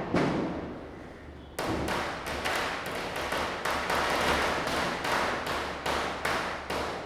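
Firecrackers bursting: one loud bang right at the start, then from about a second and a half in a fast string of sharp cracks, about four a second, running until near the end.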